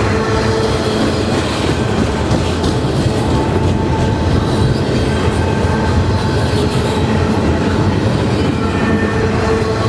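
Freight train cars rolling past at close range: a loud, steady rumble of steel wheels on rail with some clickety-clack and faint wheel squeal.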